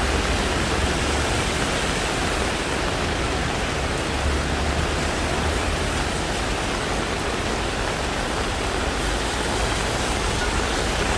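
Heavy tropical rain pouring steadily, an even hiss.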